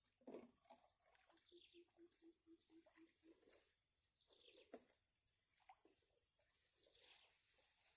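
Faint bird calls: several short notes sliding down in pitch, and a quick run of about nine even, low notes, roughly four a second, in the first few seconds.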